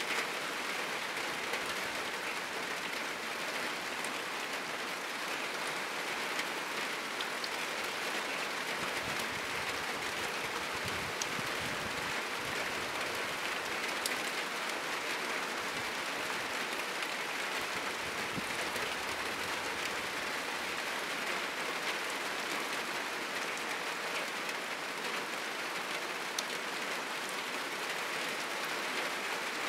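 Heavy rain falling steadily on a roof and the surrounding trees, an even hiss with no letup. A faint low rumble comes in about a third of the way through.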